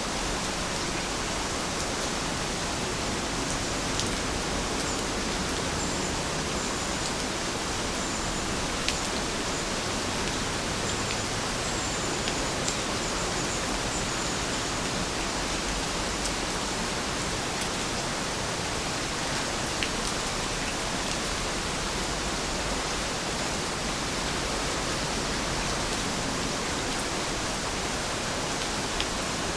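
Heavy rain falling steadily, a dense even hiss with a few louder drops striking close by.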